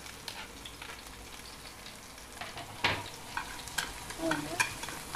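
Chopped green onions sizzling as they fry in hot oil in a frying pan, with chopsticks tapping and scraping against the pan as they are stirred; one sharper tap comes about three seconds in.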